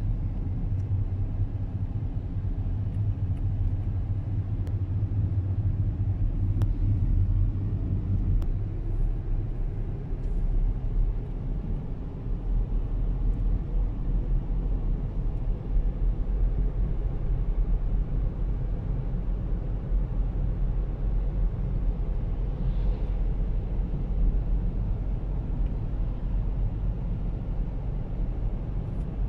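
A car driving along a road: a steady low rumble of tyre and engine noise, heard from inside the cabin.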